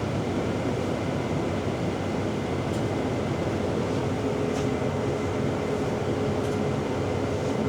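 Inside a moving city shuttle bus: steady engine and road noise, with a steady whine joining about four seconds in.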